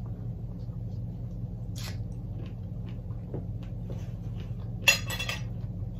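Mouth sounds of someone eating fresh fruit: soft chewing with a few wet, juicy squishes, the loudest about five seconds in, over a steady low hum.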